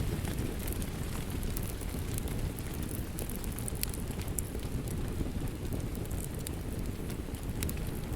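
Wood fire crackling with scattered sharp pops over a steady rumble and rain hiss.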